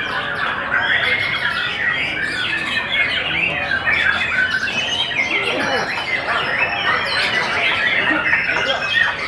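Many competition songbirds singing at once: a dense, unbroken chorus of overlapping chirps, trills and squawks.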